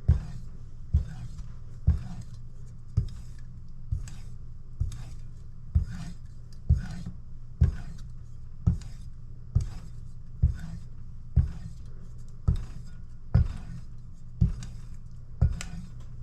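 Coolina kitchen knife blade scraping across a sharpening stone in regular strokes, about one a second, each a short rasp. A steady low hum runs underneath.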